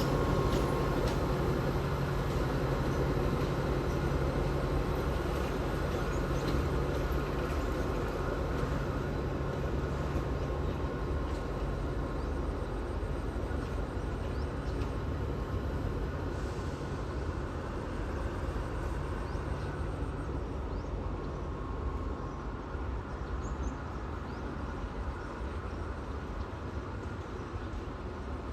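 Diesel train running on the track with a steady engine drone and rumble, slowly fading as it moves away.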